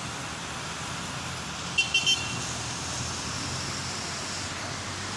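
Vehicle horn tooting three quick short beeps about two seconds in, over a steady wash of rain and traffic noise.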